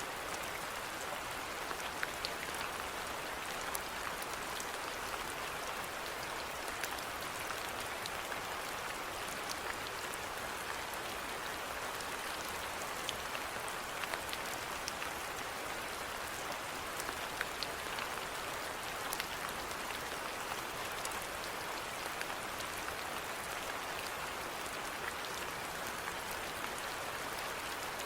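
Steady rainfall, with scattered individual drops ticking sharply over an even hiss of rain.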